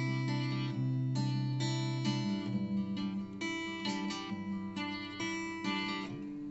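Acoustic guitar playing an instrumental passage, notes changing every half second or so, with no singing.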